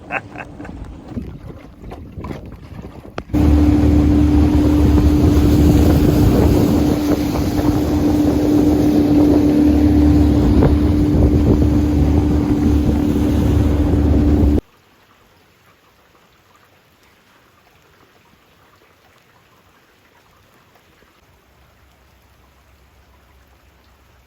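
Boat outboard motor running steadily at speed, with wind and water rush. It starts abruptly about three seconds in and cuts off suddenly a bit past the middle, leaving only a faint hiss.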